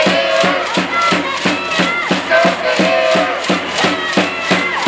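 Rhythmic cheering music from the stands at a volleyball match: a steady beat of about four strokes a second with long held tones above it, over crowd noise.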